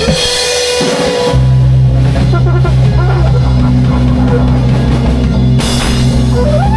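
Live band improvising rock-style music on drum kit and guitar. A held note gives way about a second in to heavy, sustained low notes, and near the end a note slides upward.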